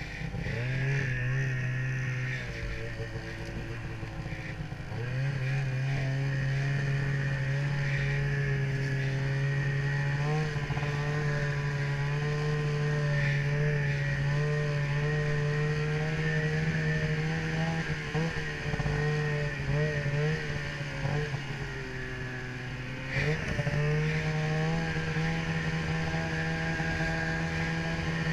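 Ski-Doo snowmobile engine running at riding speed. It eases off about two seconds in, picks back up a few seconds later, and drops briefly again near the end before coming back on.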